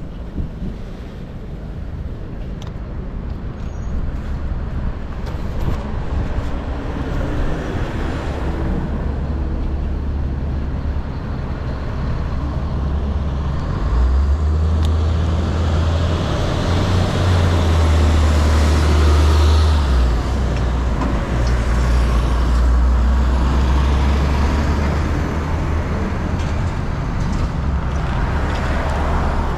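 Steady street traffic noise of passing cars and trucks, with a heavy low rumble underneath that swells for several seconds midway.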